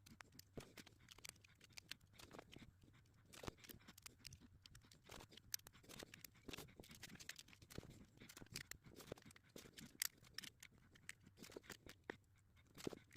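Faint, irregular clicks and ticks of plastic LEGO pieces being handled and pressed together.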